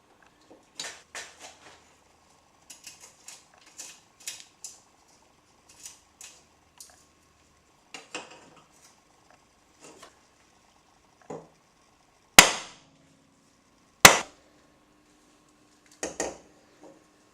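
Light metallic knocks and taps in a loose series, then two hard hammer blows on metal about a second and a half apart, each ringing briefly, and a last cluster of knocks near the end.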